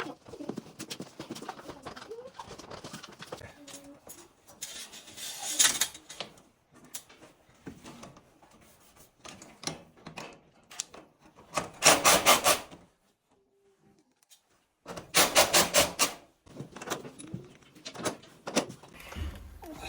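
Construction handling and rubbing noises with scattered clicks, broken by three loud bursts of rapid, evenly spaced clatter, each about a second long.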